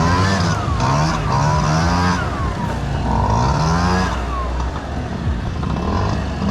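Honda Dio two-stroke scooter engine revving up and dropping back about four times as the throttle is opened and closed.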